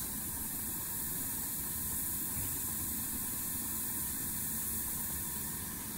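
Steady hiss of steam from a 7.5-inch gauge live-steam locomotive, with a low rumble underneath and no distinct beats or pauses.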